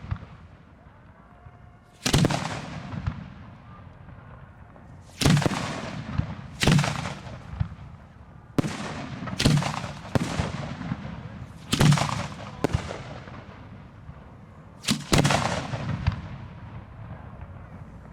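Fireworks display heard close to the launch site: about eight loud, sharp booms from aerial shells going off at uneven intervals, each followed by a long echoing fade.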